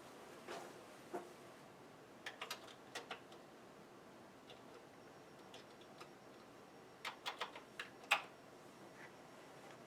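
Keys being typed on a Commodore 64 keyboard: irregular sharp clicks in two short runs a few seconds apart, the loudest near the end.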